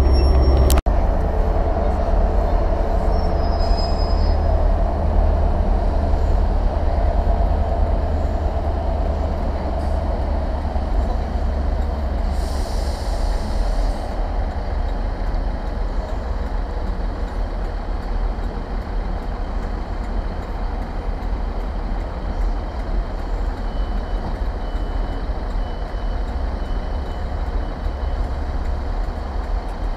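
Steady low rumble of diesel trains in a station, with a short hiss about twelve seconds in.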